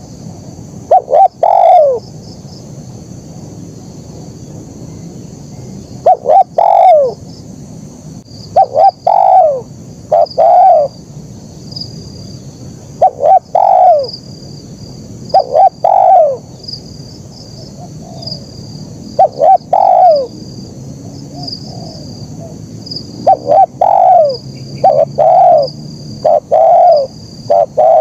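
Spotted dove (tekukur) cooing: repeated phrases of a few short notes ending in a longer falling coo, every few seconds, with several phrases close together near the end.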